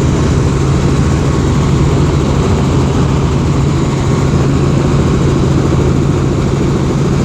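Helicopter engine and rotor running, a loud steady drone with a strong low hum that does not change.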